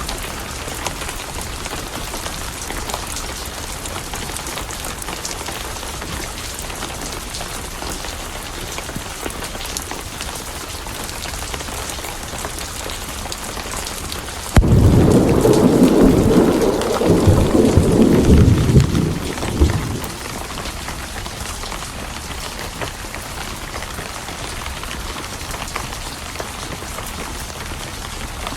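Steady rain with a thunderclap about halfway through that breaks in suddenly and rumbles for about five seconds before fading back into the rain.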